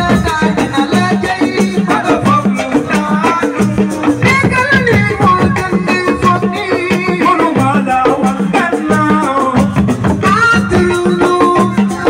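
Senegalese assiko band music: fast, dense percussion over a steady, repeating low beat, with a melody line weaving above it.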